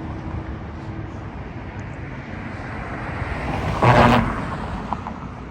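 Street traffic, with a road vehicle passing close by: a steady rumble that builds to a brief loud peak about four seconds in, then fades.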